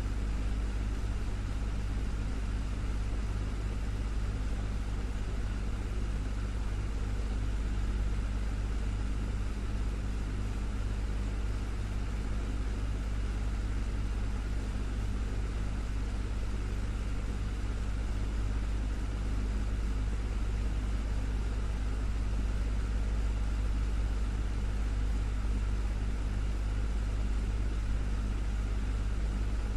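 Desktop fan running steadily: a constant low hum under an even whir of moving air.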